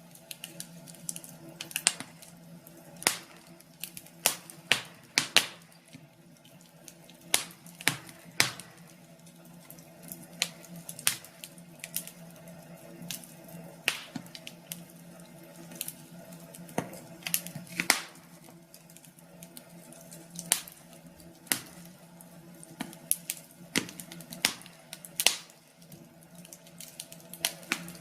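Wood fire crackling, with sharp irregular pops and snaps, a few a second at times, over a steady low hum.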